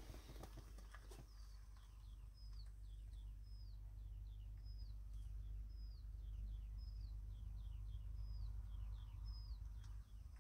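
A songbird singing, repeating the same short phrase about once a second: a high whistled note that drops at its end, followed by two quick falling notes. A faint low rumble runs underneath.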